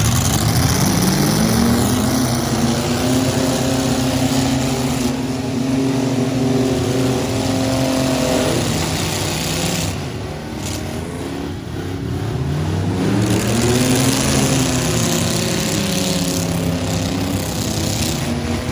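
Full-size demolition derby trucks' engines revving hard, climbing and holding a high rev. The revs ease off around ten seconds in and climb again a few seconds later.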